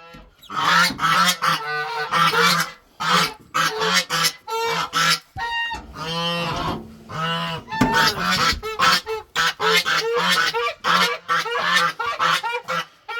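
Geese honking over and over in rapid, loud calls, with one longer drawn-out call about six seconds in.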